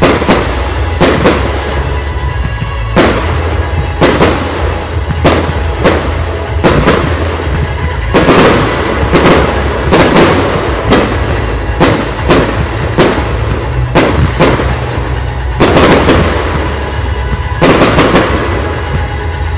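Fireworks display: aerial shells bursting in a rapid, irregular run of loud, sharp bangs, often two or three in quick succession.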